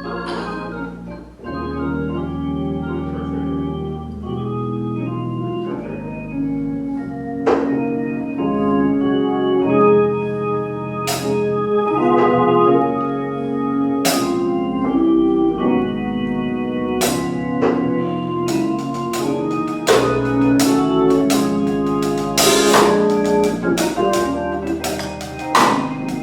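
Organ playing sustained, slowly changing chords, with sharp percussive hits that come now and then at first and grow frequent in the last third.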